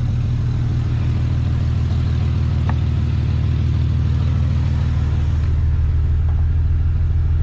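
1983 Chevy S10 Blazer's V6 engine idling steadily, running much better on new spark plugs and wires.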